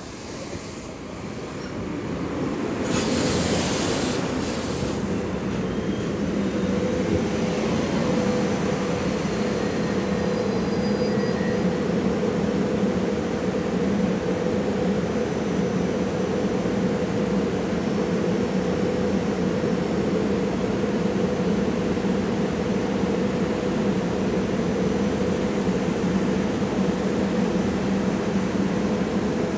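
SEPTA Silverliner IV electric railcars pulling into the platform and coming to a stop, with a short burst of hiss about three seconds in. After that comes a steady hum with a low and a higher tone while the train stands at the station.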